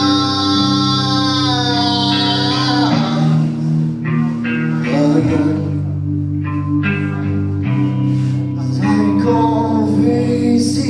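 Live band playing a song with guitar and a sung melody: a long note is held for about the first three seconds, then the guitar and bass chords carry on under more singing.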